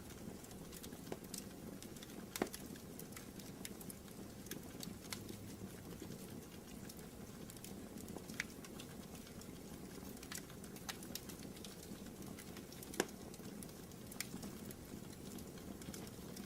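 Wood fire burning in a fireplace: a steady low rush of flames with scattered crackles, and two louder pops, one about two and a half seconds in and one near thirteen seconds.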